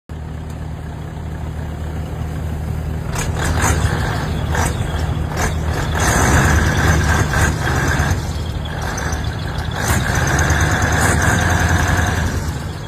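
Car engine mounted in a boat, running steadily with a low, even hum. Its noise swells louder twice, and a few sharp clicks or knocks cut through.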